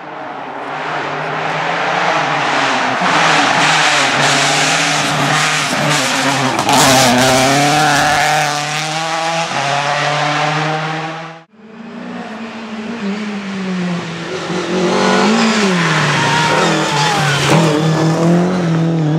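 Rally car engines at full effort, pitch rising and falling through gear changes, with a cluster of sharp cracks about halfway through the first run. The sound cuts out abruptly about eleven seconds in and another rally car is heard running hard.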